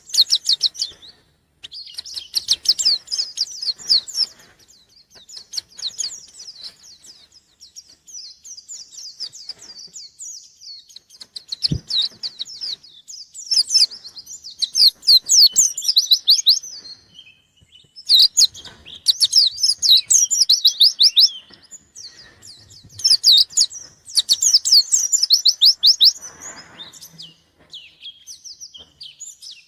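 Pleci (white-eye) singing vigorously: rapid chattering trills of high notes in repeated bursts a second or three long, with short pauses between. One brief knock about twelve seconds in.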